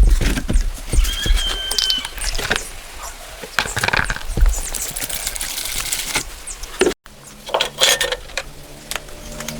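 A series of short knocks and clinks, with a brief high squeak about a second in. After an abrupt cut about seven seconds in, a low steady hum comes in.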